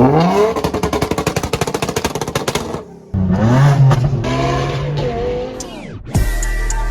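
Car engine revving hard twice: the first rev rises with a rapid crackle through it, the second climbs, holds and falls away. Music comes in near the end.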